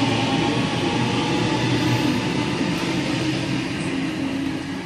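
Sydney Trains Waratah (A set) electric train pulling away from the platform: steady rolling and running noise with a faint motor whine, fading near the end.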